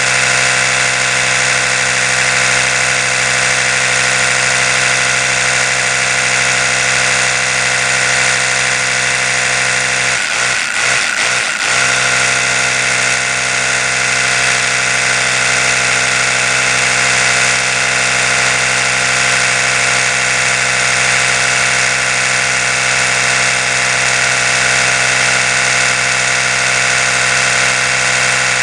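Oral-B electric toothbrush motor running with a steady buzz, wavering briefly about ten seconds in before settling back to the same hum.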